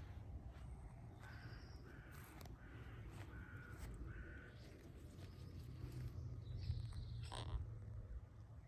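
A crow cawing, five short caws in a row about two-thirds of a second apart, followed by another bird call near the end, over a low background rumble.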